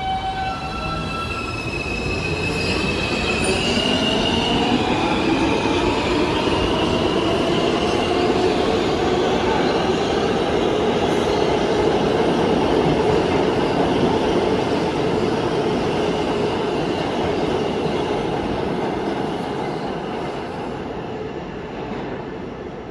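New York City subway train running through an underground station. High-pitched wheel squeal sounds over the first few seconds, then the rumble of the cars builds to a peak about halfway through and fades toward the end.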